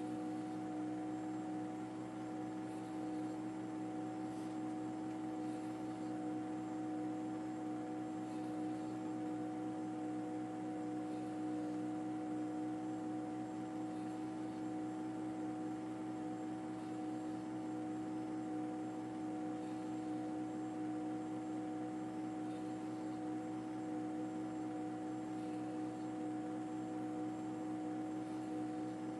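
A steady mechanical drone with a few held tones over a low hiss, unchanging throughout, like an engine or machine running at constant speed.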